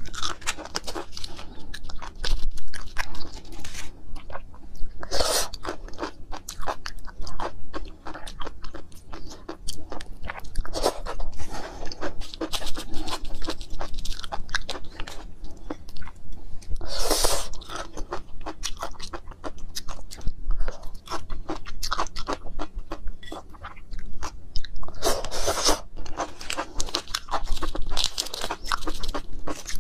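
Close-miked chewing of crunchy food: a dense run of fast crackling, popping clicks, with three longer, louder bursts spread through.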